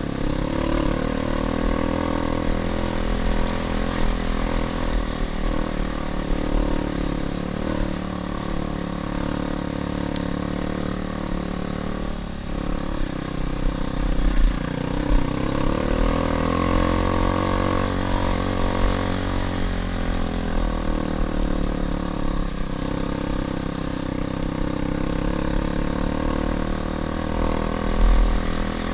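Dirt bike engine running while riding, its note rising and falling with the throttle.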